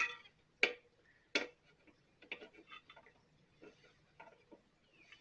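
Small sharp clicks and ticks of handling inside a backpack blower's engine housing while its kill switch wire is reconnected: three crisp clicks in the first second and a half, then softer scattered ticks and rustles.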